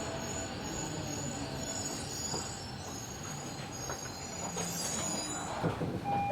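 Tobu 70000 series commuter train heard from inside the car as it slows into a station, with wavering high-pitched squealing from the wheels or brakes over the running noise. The squeal and running noise die away near the end as the train comes to a stop.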